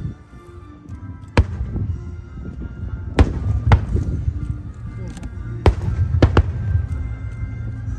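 Aerial fireworks bursting: sharp bangs at irregular intervals, about six in all, the loudest near three and six seconds in, over a low rumble and background music.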